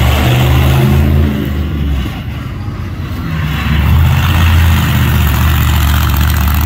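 Monster truck engine running loud, dropping in pitch about a second in and revving up again around three to four seconds in.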